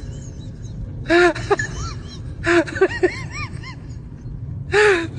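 Short voice-like cries in three bursts, some bouncing up and down in pitch, over a steady low rumble.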